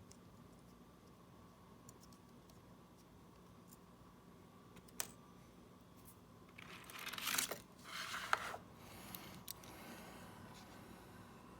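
A faint click, then two short bursts of rustling, crinkling noise about seven and eight seconds in and softer rustling after, over a low steady hum.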